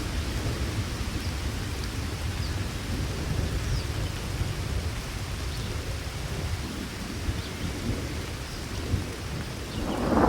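Steady rain over a continuous low rumble of thunder during a thunderstorm. Near the end, the sound swells into a louder burst.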